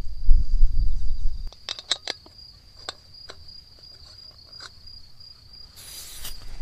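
A steady, high insect trill, probably a cricket. It sits under a loud low rumble in the first second and a half, a run of sharp clicks, and a short hiss near the end.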